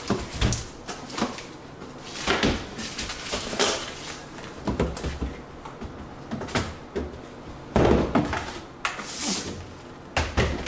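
Containers and food packages being handled and fitted into a refrigerator: irregular knocks, clatter and rustling, with louder thumps about half a second in, at about two seconds and near eight seconds.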